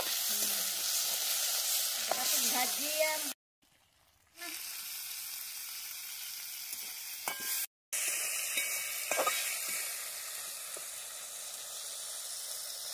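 Chopped tomatoes sizzling in oil in a hot metal kadai, with a metal spatula scraping and now and then clinking against the pan as it stirs. The sound cuts out briefly twice.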